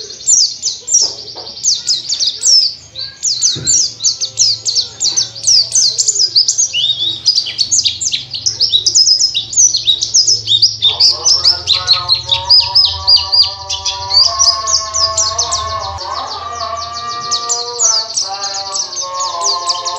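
Pleci (white-eye, Zosterops) singing a fast, unbroken stream of high chirps and twitters: the long rolling 'ngerol' song of a bird in full song. From about halfway through, background music with held notes plays beneath it.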